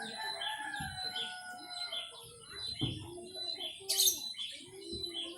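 Many small birds chirping and singing over one another, with lower, longer calls underneath and a sharp, loud high call about four seconds in.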